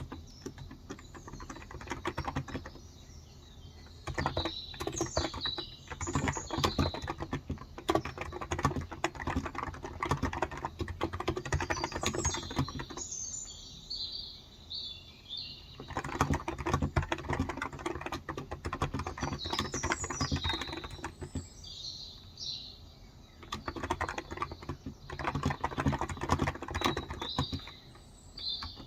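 Typing in runs of quick keystrokes on a Cox Endeavor tenkeyless keyboard with electrostatic capacitive (non-contact) 35 g switches, broken by short pauses. Small birds chirp in the background throughout.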